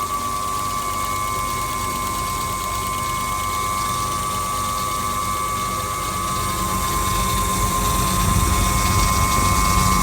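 Washing machine running, with a steady high motor whine and a low rumble that swells from just past halfway.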